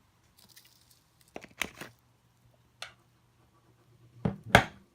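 Scattered light clicks and knocks of small hardware being handled as bearings are fitted into a longboard hub-motor wheel, with the loudest two knocks close together near the end.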